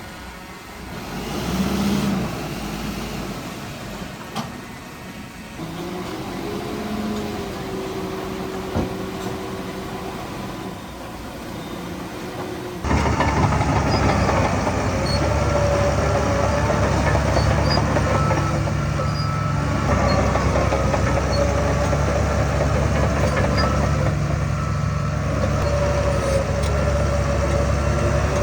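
Diesel engines of heavy earthmoving machinery, a bulldozer and dump trucks, running and working. The sound jumps suddenly to a much louder, steady engine drone about halfway through.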